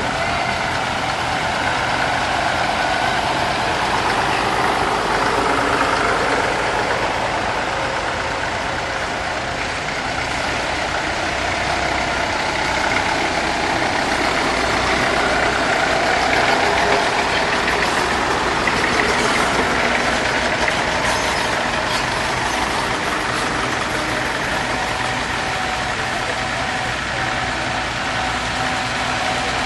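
Vintage tractor engines running at a steady low pace.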